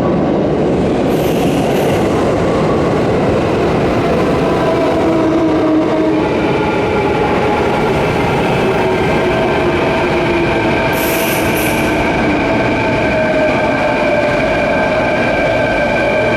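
Electric commuter train moving along the platform at close range: a loud, steady rumble of wheels on rail. From about six seconds in, several steady whining and squealing tones sit over the rumble, and two brief high hisses come about a second in and about eleven seconds in.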